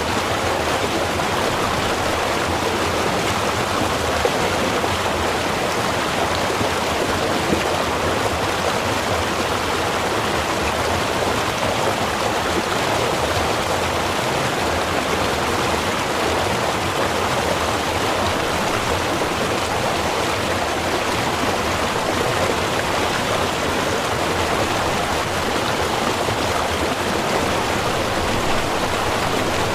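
Small river or stream running, a steady, even rush of flowing water.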